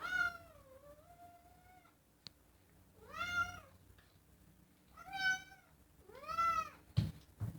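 Pet cat meowing four times: one long, drawn-out meow, then three shorter rising-and-falling meows. A few soft knocks come near the end.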